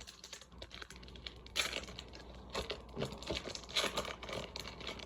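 A Magic: The Gathering booster pack's foil wrapper being crinkled and torn open, in a string of short irregular rustles and crackles.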